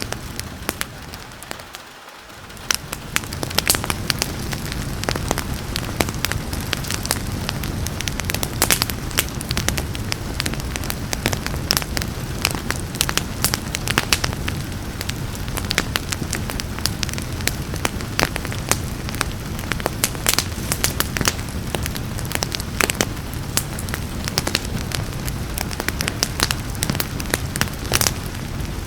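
Wood fire crackling and popping, with many sharp snaps over a steady hiss of rain. The sound dips briefly about two seconds in, then comes back.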